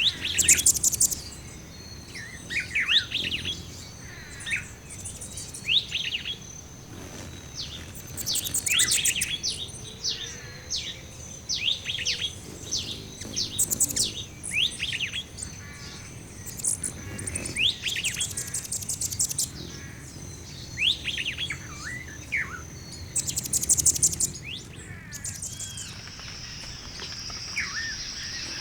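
Mixed chorus of wild birds chirping and singing, with short falling chirps and several fast, high trills every few seconds. A thin steady high whine runs beneath, and near the end a steady high insect buzz comes in.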